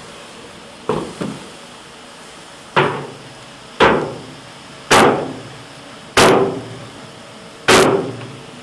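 A series of heavy hammer-like blows, seven in all, roughly a second apart. The first pair is quicker and fainter, and the later blows are the loudest. Each strike rings briefly and dies away.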